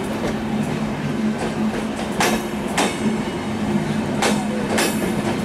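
Chittra Express intercity passenger train rolling on, its wheels clacking over rail joints in pairs, two clacks about half a second apart, twice, over a steady running hum.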